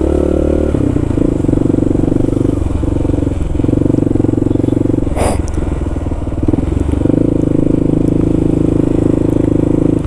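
Kawasaki KLR650 single-cylinder motorcycle engine running as the bike is ridden. Its steady note breaks up about a second in and turns uneven, then settles steady again about seven seconds in, with one brief sharp noise about five seconds in.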